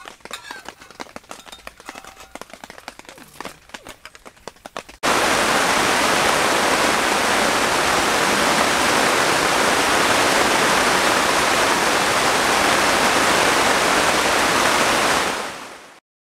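Heavy rain pouring down: a loud, steady hiss that starts abruptly about five seconds in and fades out near the end. Before it there are only faint light clicks.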